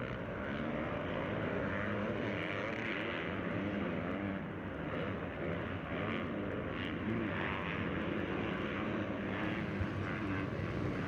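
Several dirt-bike engines running, their pitch wavering up and down over a steady background hum.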